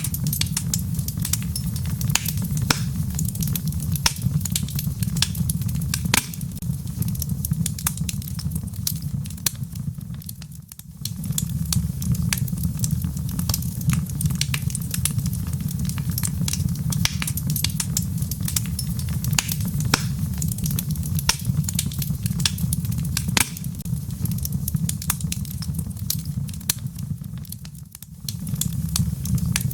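Wood fire crackling in a fireplace: many sharp pops and snaps over a steady low rumble, mixed with a rain hiss. The sound thins out briefly twice, about eleven seconds in and again near the end.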